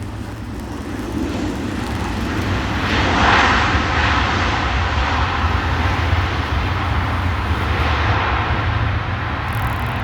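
Airliner's jet engines roaring as the aircraft passes, swelling to its loudest about three seconds in and then holding a steady roar over a low rumble.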